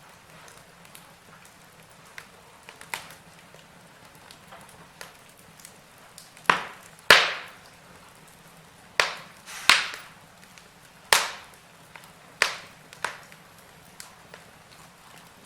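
Wood fire in a fireplace crackling: scattered small snaps over a faint steady hiss, with a run of louder sharp pops in the second half.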